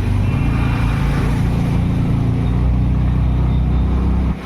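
Motor vehicle engine running steadily with road noise, heard from on board; it cuts off abruptly just before the end.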